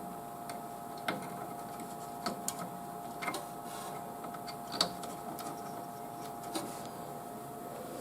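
Light plastic clicks and taps of a fan cable connector being handled and pushed at a motherboard header, scattered irregularly, about eight of them, over a steady background hum.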